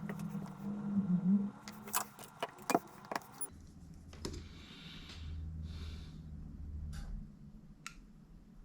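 Sharp metallic clicks and clinks of small tools and parts being handled on a workbench, clustered in the middle. There is a low steady hum in the first second or so.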